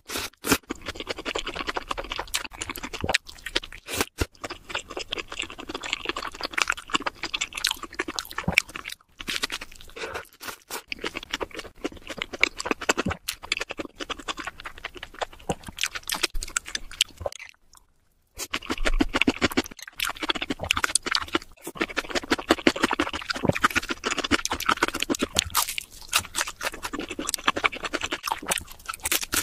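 Close-miked chewing and crunching of a crispy fried-chicken burger and fried chicken: dense crackling bites and wet mouth sounds. A brief silence falls about two-thirds of the way through.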